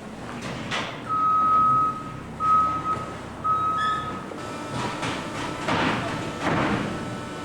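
An electronic warning beeper at one steady high pitch sounds three times, about a second apart, over running machinery. It is followed by a few seconds of loud rattling and crashing noise.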